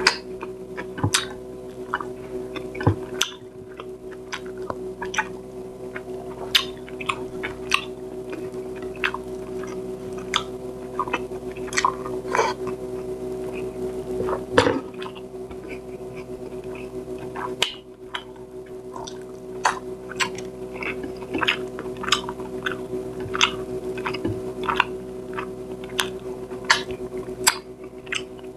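A person eating tilapia in coconut milk with rice by hand: wet chewing and mouth-smacking, with many short sharp clicks, over a steady low hum.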